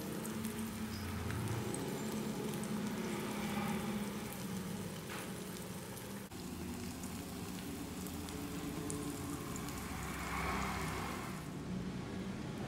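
Egg batter with sliced onion and tomato sizzling as it fries in a nonstick pan: a steady hiss with fine crackles, over a low hum.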